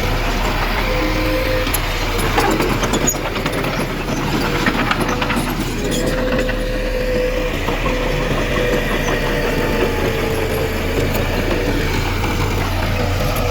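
Heavy earthmoving machinery's diesel engine running steadily, with a higher whine that comes and goes. A spell of clanking and rattling comes about two to six seconds in.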